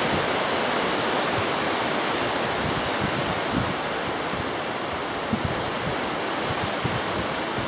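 Strong gusty wind rushing over the microphone, a steady roar with irregular low buffeting thumps.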